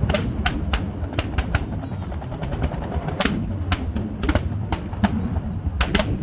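Fireworks going off: about a dozen sharp, irregular bangs, with a short lull in the middle, over a steady low rumble.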